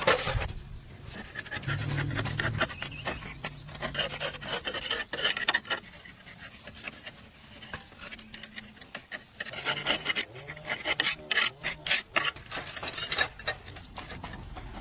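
Rapid rasping, scraping strokes of a hand tool on a hard surface, in two spells: one in the first few seconds and another starting about ten seconds in.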